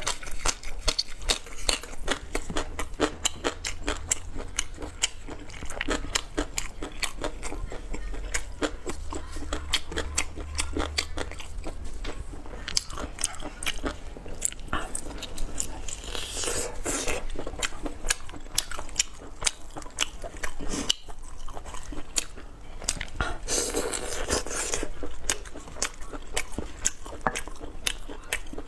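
Close-miked wet chewing and biting of stewed pork ring sausage, with crunchy bites and many sharp mouth clicks throughout. Two longer noisy stretches come about halfway through and again near the end.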